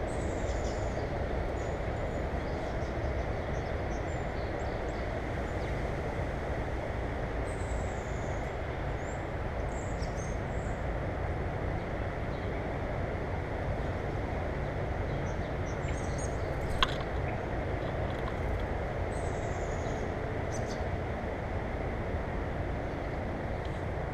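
Small birds giving short, high, falling chirps, a few at a time and several times over, above a steady low rumbling noise. A single sharp click comes about two-thirds of the way through.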